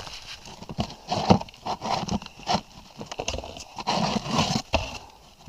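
Irregular knocks and scrapes as a broken geocache box is handled and pulled about.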